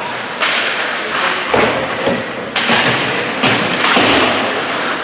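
Ice hockey play: about five sharp thuds of puck and bodies hitting the rink boards, over a steady hiss of skates on the ice.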